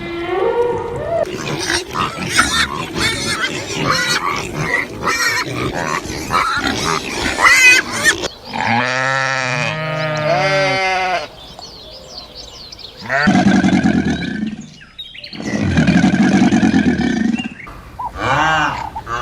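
Farm animals calling: a stretch of quick, choppy grunts and squeals, then a long wavering bleat-like call about eight seconds in, and two long, loud calls later on.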